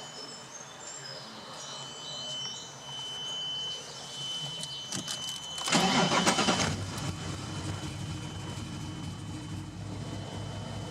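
A sports car engine being started: a few quick clicks of cranking, a loud burst as it fires about six seconds in, then it settles into a steady idle. A thin, steady high tone runs until just before the engine fires.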